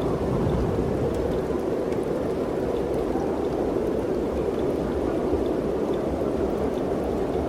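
Mountain wind blowing steadily through the trees, a continuous rushing with no gusts rising or dying away.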